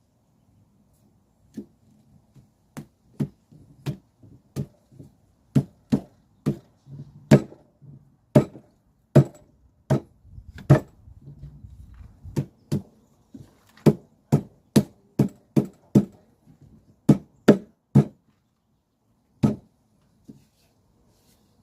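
A tool striking wood over and over, about two sharp knocks a second, with a short pause near the end.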